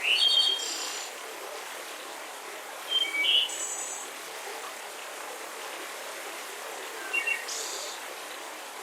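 Songbirds calling in a forest: three short phrases of high chirping notes, at the start, about three seconds in and about seven seconds in, over a steady soft breeze.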